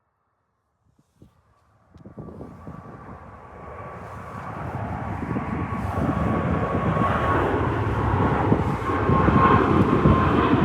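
Jet airliner taking off: its engine noise comes in about two seconds in and builds steadily louder, a deep rumble with a steady high whine on top.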